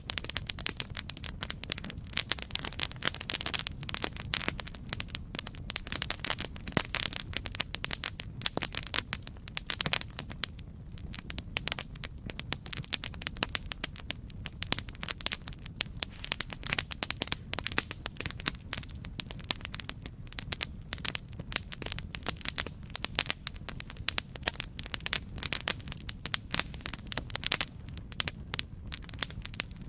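Campfire crackling: a steady stream of irregular sharp pops and snaps over a low, even rumble of burning.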